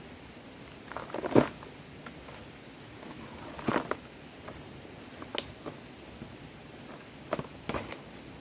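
A handful of short, sharp crunching knocks at irregular intervals, the loudest about a second in. Behind them, a steady high-pitched insect buzz sets in about a second in and holds.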